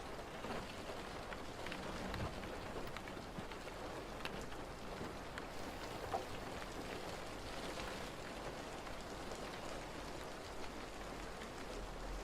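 Steady rain falling, an even hiss dotted with scattered drop taps.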